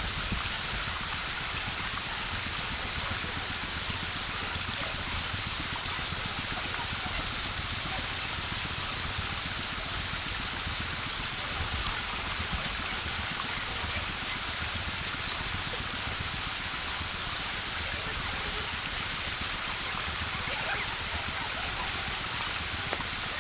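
Steady rushing water, a constant hiss with no pauses or single events.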